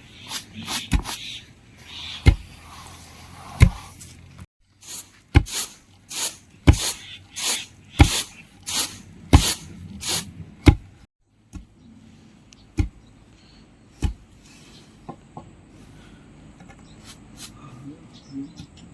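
A series of sharp knocks or strikes, evenly spaced at about three every two seconds through the middle, fewer and fainter near the end.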